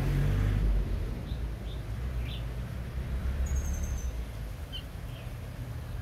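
Small birds chirping: a few short, separate chirps and one quick high twitter about halfway through, over a steady low rumble that is loudest in the first second.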